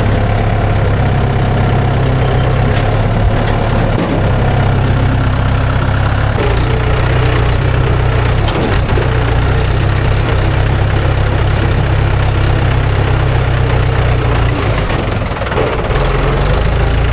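Diesel engine running steadily, its note shifting twice as the load changes.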